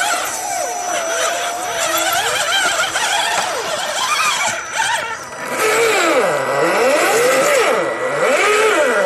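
Electric motors and gear trains of RC scale trail trucks whining, the pitch rising and falling with the throttle. From about five and a half seconds in, the whine swoops down low and back up several times.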